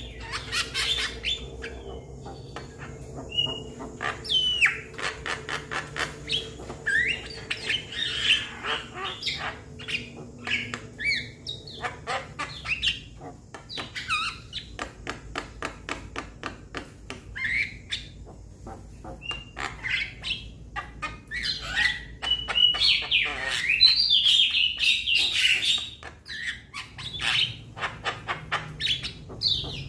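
Young Javan mynas calling: a busy run of rapid clicks, short whistles and harsh squawks, loudest in a dense burst of calls about three quarters of the way through.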